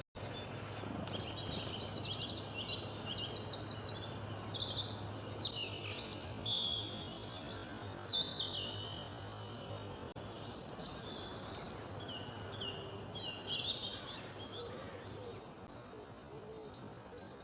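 Several birds calling and singing at once, a dense mix of chirps, short whistles and a rapid trill near the start, over a steady outdoor background hiss.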